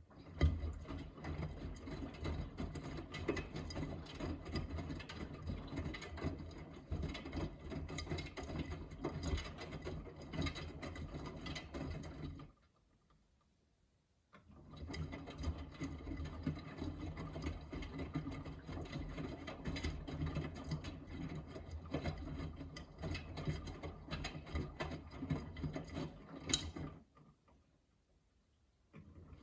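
Miele front-loading washing machine drum turning the wash load during the main wash, a steady churning with many small clicks. It runs in two turns of about twelve seconds each, with a short stop between them as the drum pauses to change direction.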